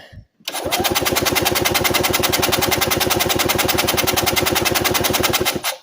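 A 1985 EZ-GO golf cart's Robin two-stroke engine cranked over on its starter with the throttle wide open for a compression test: rapid, even pulses for about five seconds, then a sudden stop. The compression is low, about 50 psi against the 90 to 120 expected, which the owner puts down to worn rings, a head gasket or a valve after the engine was run without mixed gas.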